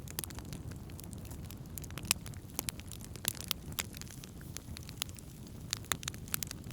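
Wood campfire burning, with irregular sharp crackles and pops over a steady low rumble of flame; the loudest pop comes about two seconds in.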